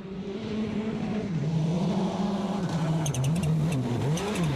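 A World Rally Car's turbocharged four-cylinder engine at speed. The revs hold, then repeatedly climb and drop as it is driven hard through the gears, with a brief cluster of sharp clicks about three seconds in.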